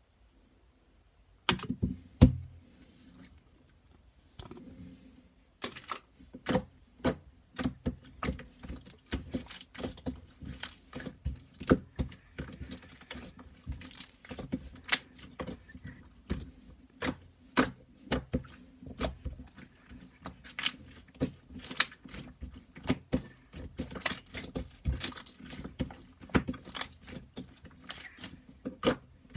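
Slime being squeezed and pressed by hand, making a run of sharp clicking and popping sounds at irregular intervals, starting about a second and a half in, over a faint low hum.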